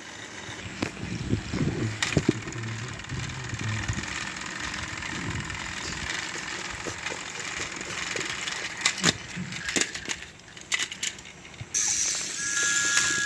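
Battery-powered Thomas & Friends toy train engines running, a small-motor whir with their wheels rattling and clicking on the track. The contest setup suggests coupled engines straining against each other. The sound changes shortly before the end, where two short steady tones appear.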